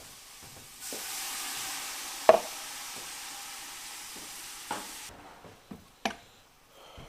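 Sausages and bacon frying in a pan, a steady sizzle that cuts off suddenly about five seconds in. A few sharp knocks fall in it, the loudest about two seconds in.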